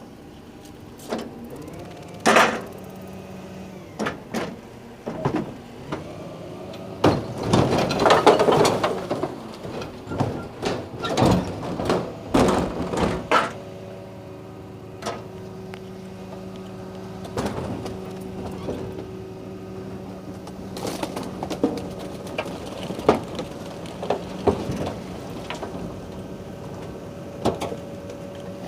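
Garbage truck's hydraulics running with a steady hum while a bin of rubbish is emptied into it and crushed: repeated knocks, bangs and clattering of bin and rubbish, loudest in a burst of crunching about eight seconds in.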